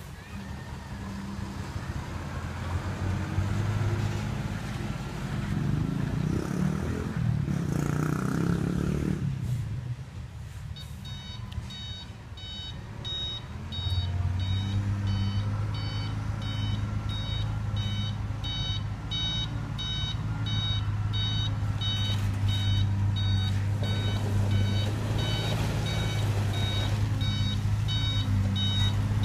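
Diesel engine of a ten-wheel dump truck running and revving up, then settling into a steady run as a reversing alarm starts beeping repeatedly and evenly about a third of the way in.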